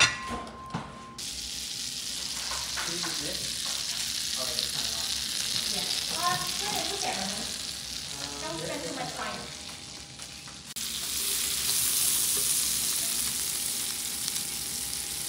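Thin-sliced beef and salmon sizzling in oil on an electric grill plate, a steady high hiss that starts about a second in and gets louder about eleven seconds in. A brief clink of dishes comes right at the start.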